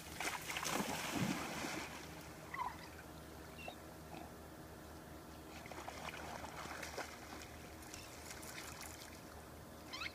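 Water splashing and sloshing, loudest in the first two seconds and again in the second half, over a steady low hum.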